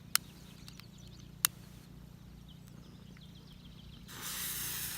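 Two sharp pops about a second and a half apart, then a ground firework fountain that starts suddenly about four seconds in and hisses steadily as it sprays.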